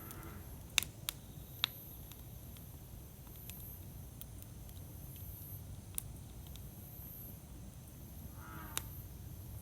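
Wood bonfire burning: a low steady rumble of flames with sharp, scattered crackles and pops, three in the first two seconds and more later. A faint wavering hiss rises near the end.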